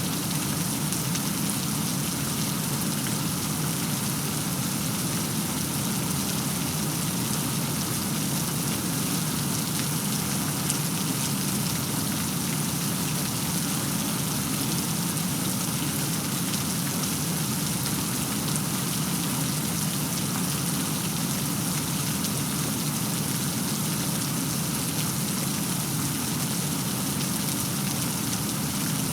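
Steady heavy rain falling, an even hiss of many drops with no thunder.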